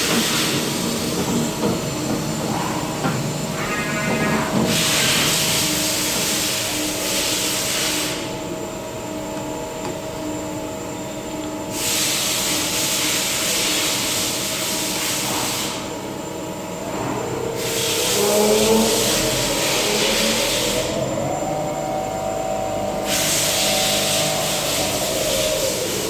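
CNC milling machine running through its program: a steady machine hum with long stretches of hissing that come and go every several seconds. In the second half a spindle tone climbs in pitch, holds, then falls away.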